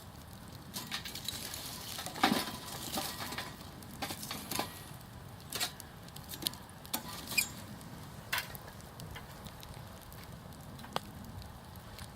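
Wood campfire crackling, with irregular sharp pops and snaps, a cluster of them about two seconds in the loudest, over a low steady hiss of burning.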